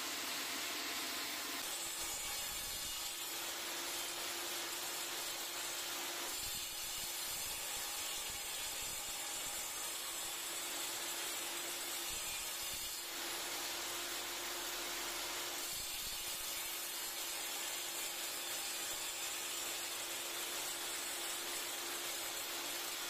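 Woodworking power tool running with a steady hum and hiss, its sound changing in stretches as it works.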